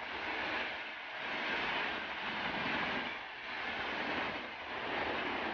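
Gatimaan Express coaches rushing past at high speed: a dense rushing noise of wind and wheels that swells and fades in waves.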